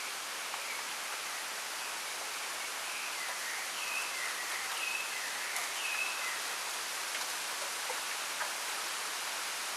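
Wind rustling through a bamboo grove as a steady hiss, with a small bird giving a run of short, high chirped notes from about three seconds in to past the middle. A few faint clicks.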